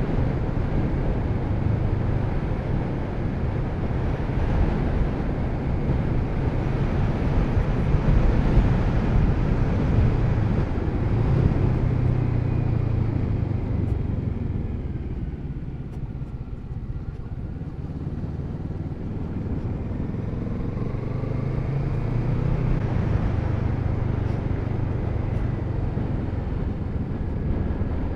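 Kawasaki Z650RS parallel-twin engine running as the motorcycle is ridden. The engine eases off a little past halfway, then builds again.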